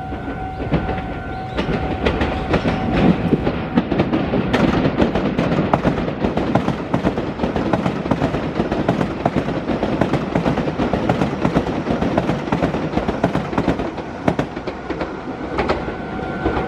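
A Meitetsu electric train passes close by, its wheels clattering rapidly over the rail joints and junction points. A steady high-pitched alarm tone fades out about three seconds in and comes back near the end.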